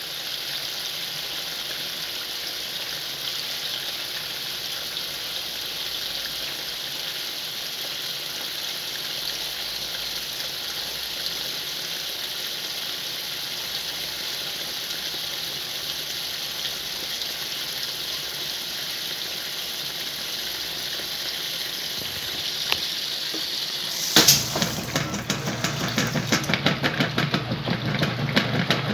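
Whirlpool washing machine filling with water, a steady rush. About 24 seconds in, the drive starts working the load: a lower running sound with rapid, rhythmic knocking.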